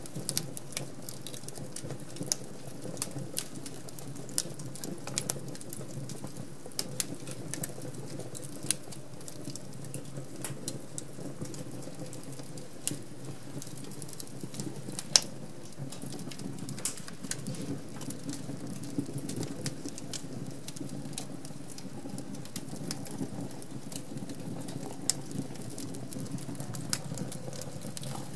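Wood fire burning in an open fireplace, crackling with many irregular sharp pops and snaps over a steady low rush of flame; a couple of louder pops stand out about halfway through.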